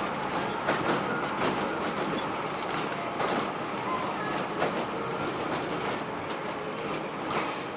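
Ride noise inside a moving intercity bus: a steady rumble and hiss with many irregular knocks and rattles.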